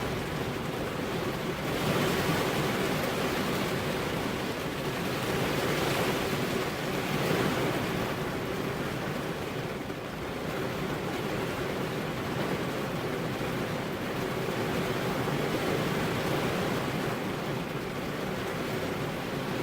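Steady rainfall, a dense even hiss that swells a little louder about two seconds in and again about six to seven seconds in.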